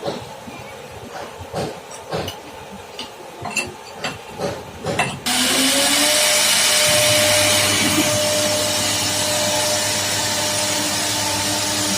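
A run of irregular light knocks and clicks. About five seconds in, a CNC router's spindle motor starts abruptly and runs with a loud steady hiss and a hum that rises briefly in pitch, then holds steady.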